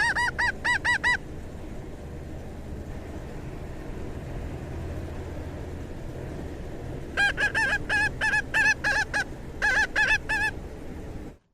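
Rapid runs of short, pitched honks, each note bending up and down: about six in the first second, then about a dozen more between roughly seven and ten and a half seconds in. A steady low rumble runs underneath.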